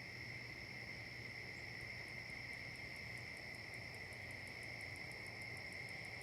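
Faint chorus of crickets trilling steadily. From about two seconds in, a second insect adds a very high-pitched pulsed chirp, several pulses a second.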